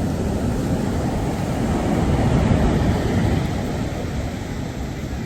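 Sea waves surging onto the shore, with wind rumbling on the microphone. The wash swells to a peak about halfway through, then eases.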